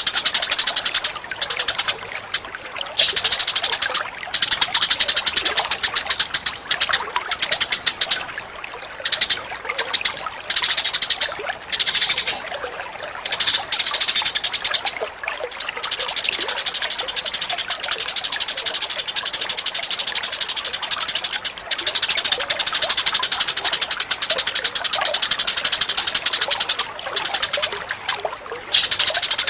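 Recorded birdsong for bird training: small birds chattering in very fast, dense runs of high chirps, breaking off and starting again every second or so, typical of fighting Eurasian tree sparrows. A fainter sound of running water lies beneath.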